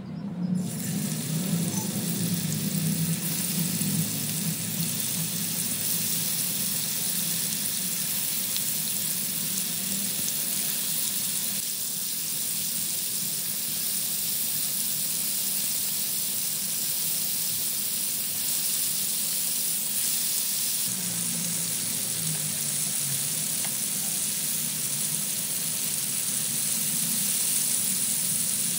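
Marinated chicken pieces frying in hot oil in a shallow pan, a steady sizzle that starts abruptly about half a second in as the pieces go into the oil.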